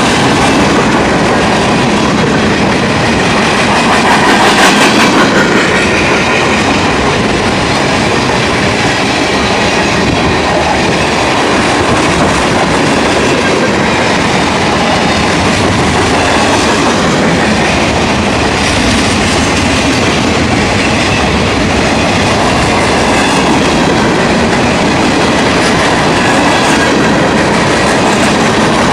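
Freight train's cars rolling past close by, with a steady loud rumble of steel wheels clacking over the rail joints, a little louder about four seconds in.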